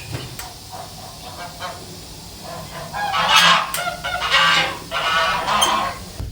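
Loud animal calls, a run of several pitched cries starting about three seconds in and lasting some three seconds.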